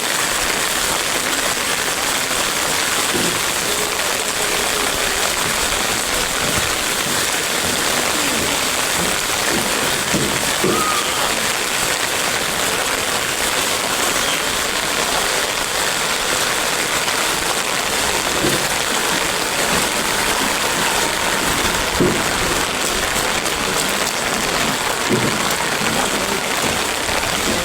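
Heavy, steady rain falling and pattering on surfaces, with a few faint short knocks now and then.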